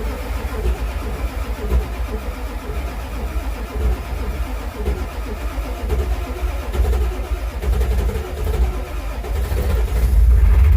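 Ford 7.3 L Power Stroke V8 turbo-diesel engine starting and running, getting louder near the end. It fires up now that the burnt glow plug control module and relay have been replaced, curing the crank-but-no-start fault.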